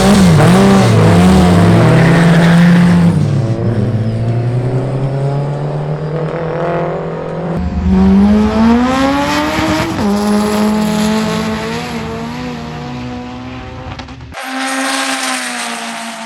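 Race cars running hard down a drag strip at full throttle, the engine notes wavering in pitch for the first few seconds, then climbing and dropping through gear changes. About fourteen seconds in the sound cuts abruptly to another engine run.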